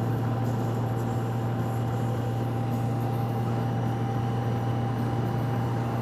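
Motorcycle riding steadily at cruising speed: an even engine hum and road and wind noise, with a thin steady high whine over it.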